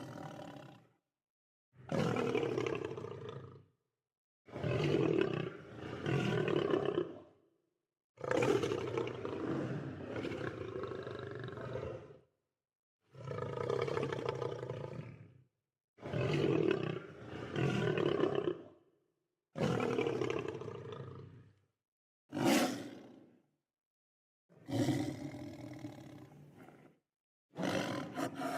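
Lion roaring and growling: about ten separate rough, throaty calls, each one to four seconds long, with complete silence cut in between them.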